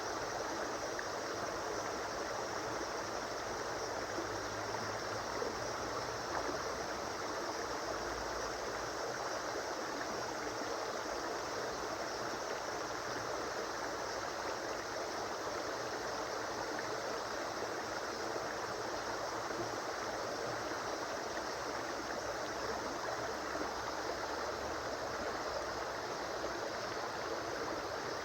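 A river or stream flowing steadily, an even rushing of water over rocks.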